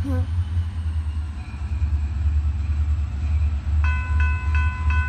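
Low rumble of an approaching diesel train locomotive; about four seconds in a railroad bell starts ringing, struck about three times a second.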